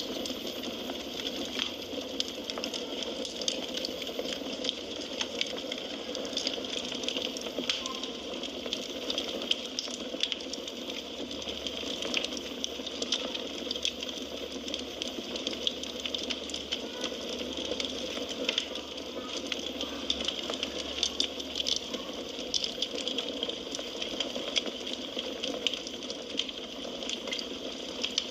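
Firewood burning in a fireplace: a steady hiss with frequent small crackles and pops.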